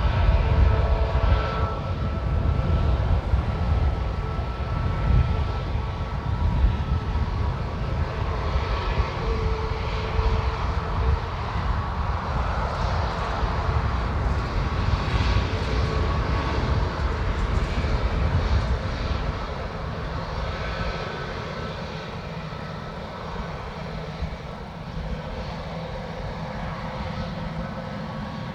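Airbus A320neo jet engines running at low taxi thrust: a steady low rumble with a faint whine, growing quieter about two-thirds of the way through as the airliner moves away.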